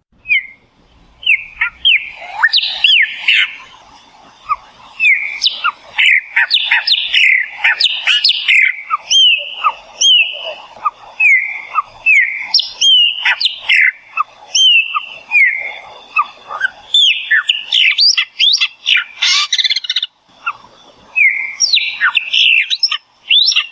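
Chopi blackbird (melro) singing: a long, loud run of varied whistled notes, many sliding up or down, mixed with quick chattering notes.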